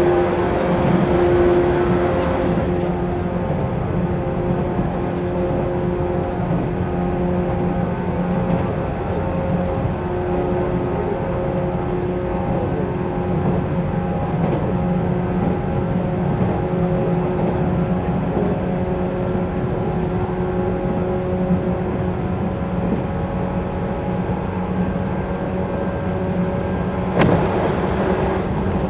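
JR 185 series electric train running at steady speed, heard from inside the carriage: a steady motor and gear hum over continuous wheel and rail noise. A sudden rush of louder noise comes in near the end.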